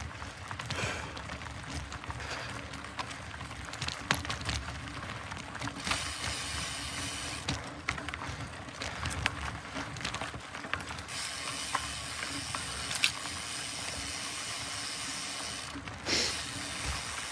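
Mountain bike rolling fast along a dirt trail: a steady hiss of tyres and rushing air, broken by scattered knocks and rattles from the bike.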